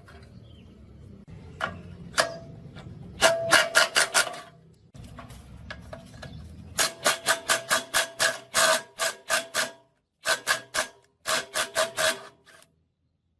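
Rapid hammer blows on metal, each with a short ringing note, in quick runs of several strikes about four or five a second, broken by sudden cuts to silence.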